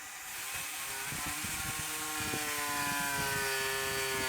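Electric drill running as it bores test holes into the cured thickened-epoxy and FR4 fill of a deck. The motor whine builds within the first second, then its pitch sags slowly as the bit bites.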